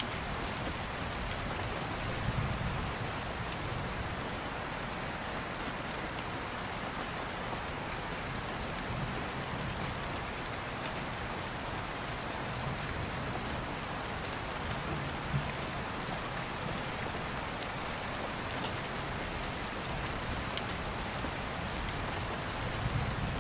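Steady rain falling, an even hiss throughout, with a few sharp ticks scattered through it.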